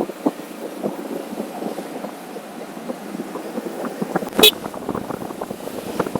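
Wind buffeting the microphone of a camera riding on a moving motorcycle, a choppy, ragged noise, with one sharp click about four seconds in.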